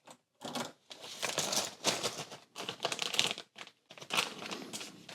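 Plastic LEGO minifigures clicking and clattering as they are handled and gathered into a plastic bag. The sound comes in irregular bursts of small clicks and rustles with short pauses between them.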